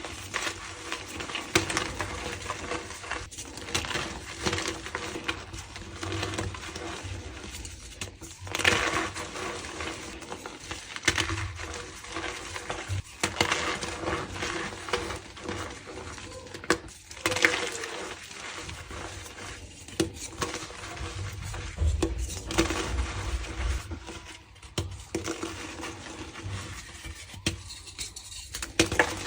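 Blocks of reformed gym chalk crunching and crumbling, a dense run of dry crackles and clicks with several louder, sharper crunches throughout.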